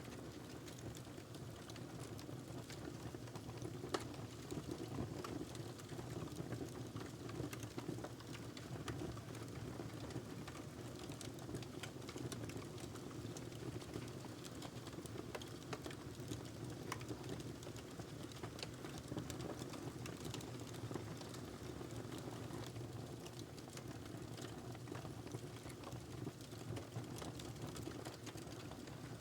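Burning log crackling in a fireplace: a steady low rush of flame under many small, irregular crackles and pops, with one sharper pop about four seconds in.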